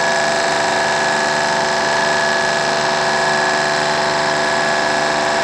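A repaired 2.5-tonne wire-rope winch drum and its drive running steadily on test. It gives an even machine whine made of several held tones.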